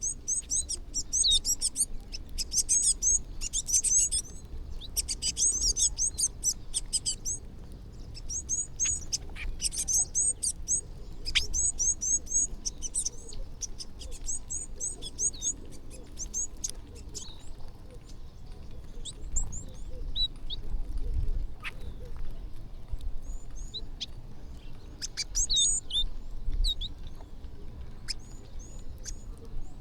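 A flock of small birds chirping and twittering rapidly over one another, with many quick high calls that come thickest in the first half and thin out to scattered chirps later.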